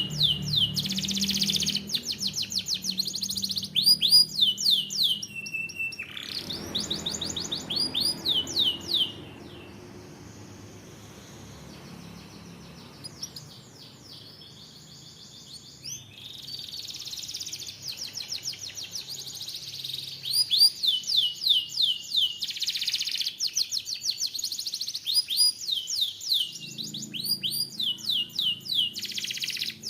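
Canary singing in fast trills of rapidly repeated sweeping notes, pausing about nine seconds in and taking up the song again some seven seconds later.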